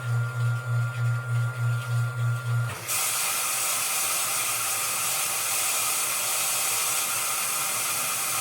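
Washing machine motor humming low, pulsing about four times a second, then cutting off abruptly just under three seconds in as a steady hiss of water rushing into the machine takes over.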